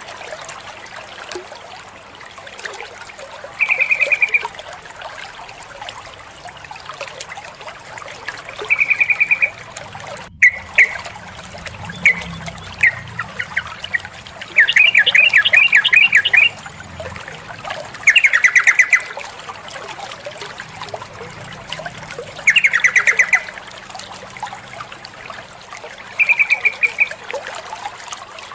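Female yellow-vented bulbul calling: short trilled calls repeated about every five seconds, with three longer rapid series of notes about 14, 18 and 22 seconds in, over a steady trickle of water.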